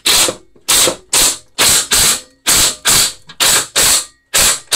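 Ratchet wrench clicking in about ten quick back-and-forth strokes, roughly two a second, as it tightens the engine's mounting bolts to the mower deck.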